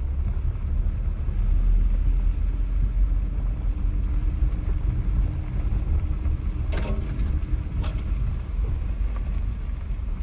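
A car driving slowly, heard from inside the cabin as a steady low rumble of engine and tyres. Two short knocks come about seven and eight seconds in.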